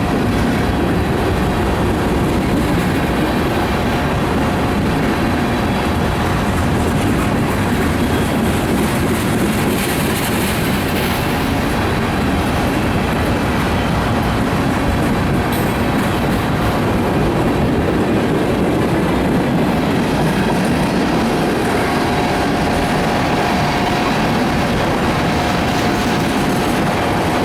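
Freight cars of a CSX mixed freight train rolling past close by: a loud, steady rumble of steel wheels on rail. A thin steady wheel squeal runs above it and grows stronger after about twenty seconds.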